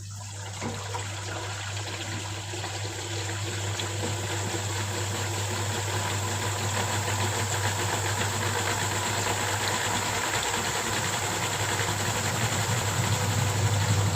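Top-loading washing machine (Whirlpool White Magic Classic, 6.5 kg) running with a steady motor hum and a noisy churn that slowly grows louder. The tub is turning again after its no-wash, no-spin fault, which was put down to the drive belt.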